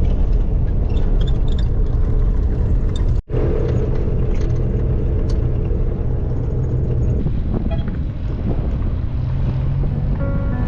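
Renault 4 van driving at steady speed: a continuous low engine rumble with road noise. There is a brief gap about three seconds in, then the same running sound continues.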